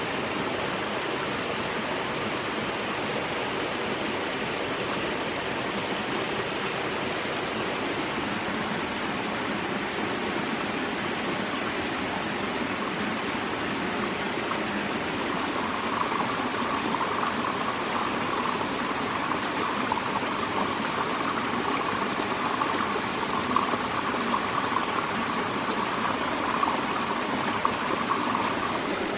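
Steady rushing noise of running water. From about halfway through it grows a little brighter, with a few small splashing peaks.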